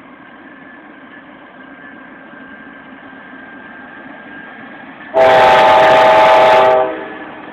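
Norfolk Southern stack train's diesel locomotives rumbling steadily and growing slightly louder, then one loud blast of the locomotive air horn, a chord about a second and a half long, starting about five seconds in.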